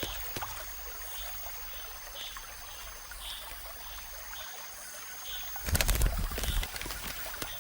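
Forest ambience with a steady high insect-like tone and a soft chirp repeating about twice a second, then a short, loud flutter of a picathartes's wings about six seconds in.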